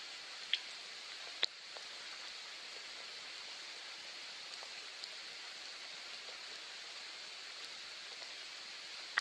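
Steady soft rain hiss, with a few single drops landing close by as sharp taps, two of them clear in the first second and a half.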